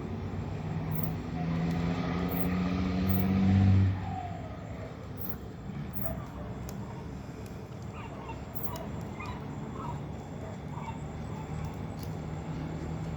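A motor engine running with a steady hum, growing louder for about four seconds, then dropping away sharply and carrying on faintly.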